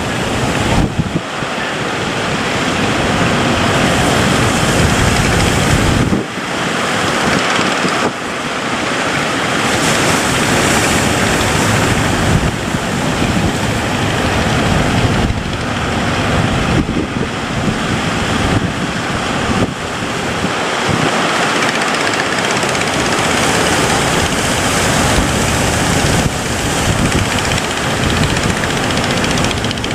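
Loud, steady rushing of wind and sea around a boat running through big waves, with wind buffeting the microphone in uneven gusts.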